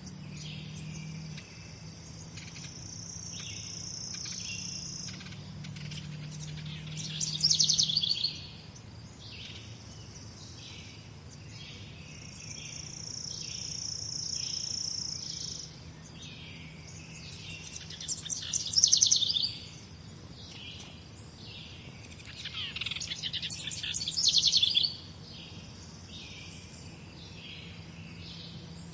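Morning songbirds singing, with many short chirps and a loud rapid trilling song that returns three times. A steady high trill is held for a few seconds twice.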